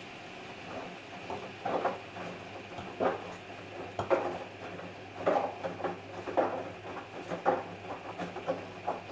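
Samsung Eco Bubble washing machine mid-cycle: a steady motor hum with irregular soft thuds and swishes, one or two a second, as the drum turns the wet laundry.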